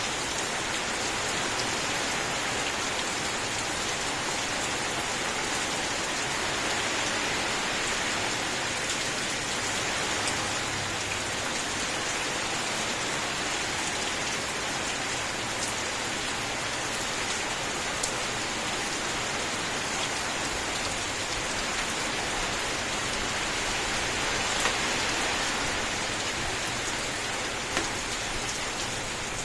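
Steady heavy rain falling on a surface, a continuous hiss with occasional sharper drop impacts.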